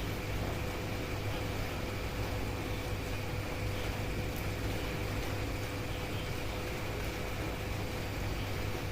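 Steady rain, an even hiss, over a low steady hum.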